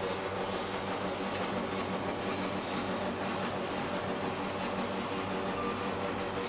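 Kone MonoSpace traction elevator car travelling: a steady hum with a few faint held tones.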